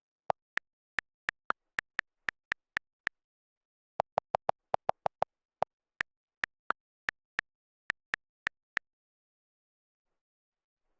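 A series of short, sharp clicks in uneven runs, about three or four a second, with a quicker burst in the middle and dead silence between them.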